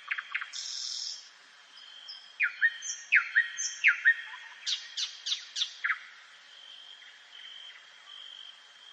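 Several wild birds singing in woodland at dawn: a burst of quick, repeated down-slurred whistled notes in the middle, over a steady high, thin note that carries on alone, quieter, after about six seconds.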